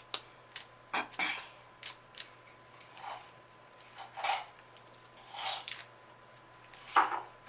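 Close-miked eating sounds from a sauce-coated seafood boil: scattered sharp clicks and short wet smacks from handling and chewing the food, with a louder one near the end.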